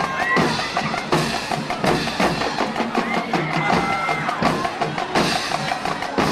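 Marching band drums playing a steady rhythmic cadence, with crowd noise underneath.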